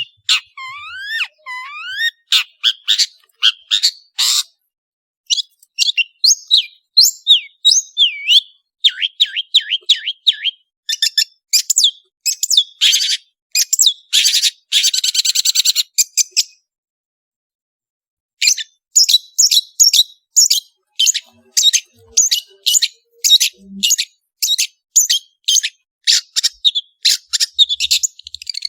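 Long-tailed shrike singing a fast, varied song of chirps, rising whistled glides and a harsh buzzing stretch. It breaks off for about two seconds a little past halfway, then resumes with a quick run of short, sharp repeated notes.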